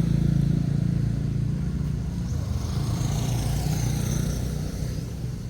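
A vehicle engine running steadily at idle, growing somewhat quieter toward the end.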